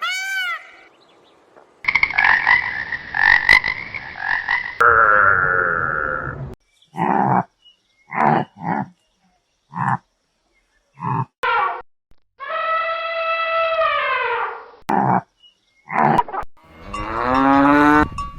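Calls of several different animals one after another, cut together: a run of short calls through the middle and a long call that falls in pitch at its end, then a cow starting to moo near the end.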